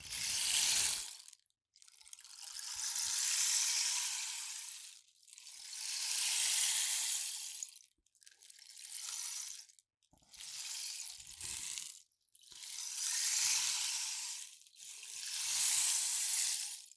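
Rain stick being tipped over again and again, its filling trickling down inside with a rain-like pattering. There are seven pours in a row, some short and some long, and each swells up and fades away.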